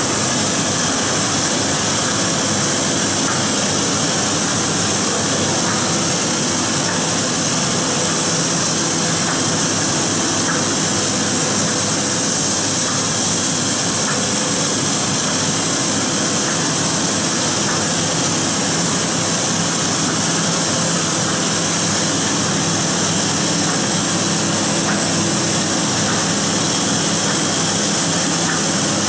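Sheet-fed offset printing press running: a loud, steady mechanical noise with a low hum underneath.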